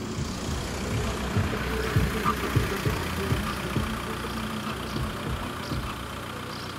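A Volkswagen estate car's engine runs as the car pulls up and stops at a lowered level-crossing barrier, then idles.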